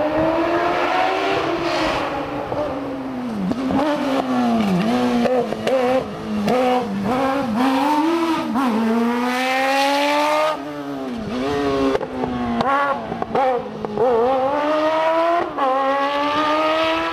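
Fiat 500 race car with a Kawasaki ZX-12R inline-four motorcycle engine, running hard on a slalom course. The engine note climbs in long rising sweeps through the gears, broken by quick repeated lifts and re-accelerations through the slalom gates.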